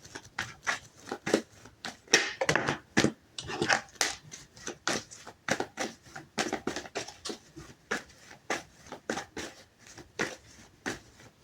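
Tarot cards being shuffled and handled: a run of quick, irregular papery clicks and flicks.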